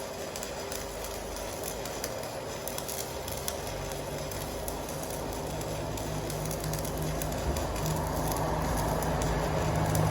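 Electric welding arc crackling steadily, with a low buzzing hum that comes in about halfway and grows a little louder.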